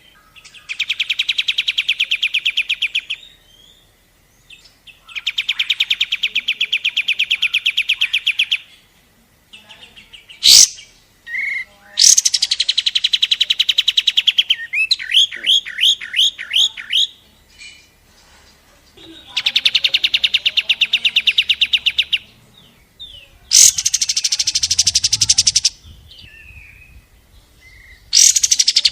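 Recorded songbird song of the kapas tembak: bursts of very rapid, high chirping trills, each lasting two to three seconds, separated by short pauses. Around the middle comes a run of separate upswept notes, and there is a single sharp click about ten seconds in.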